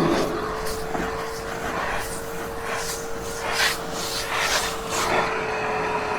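Hoover Hushtone vacuum cleaner running with a steady motor whine, with a series of short rushing swishes as the nozzle works over thick, hair-clogged carpet.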